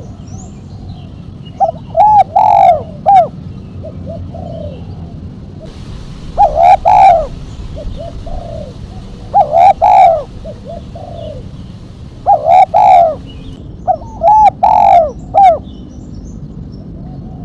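Spotted dove (tekukur) cooing in the sharp 'mercik' song style with a single 'kuk': five loud coo phrases, each about a second long, coming every three seconds or so. Fainter coos sound between them, and small birds chirp faintly behind.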